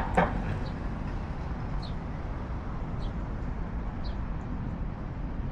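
Steady rumble of distant city traffic, with short high bird chirps about once a second. A brief call right at the start is the loudest moment.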